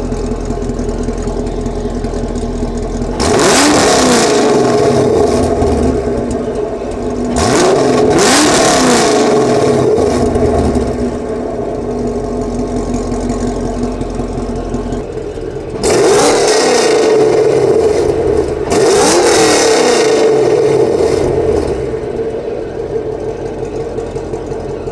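2019 Camaro SS's 6.2-litre LT1 V8 idling, then revved four times through its stock dual-mode exhaust, each rev dropping back to idle. The first pair of revs comes with the exhaust valves open (track mode), the second pair with the valves closed.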